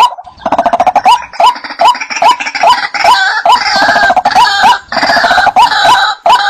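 White-breasted waterhens (ruak-ruak) calling: a steady series of short "kruak" notes, two to three a second, joined about half a second in by many overlapping calls in a dense chorus. The chorus drops away near the end, leaving the single repeated notes.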